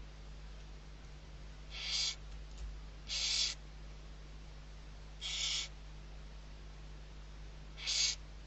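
Barn owl chick giving four short hissing calls, each under half a second, spaced one to three seconds apart: the rasping begging hiss of a young barn owl waiting to be fed.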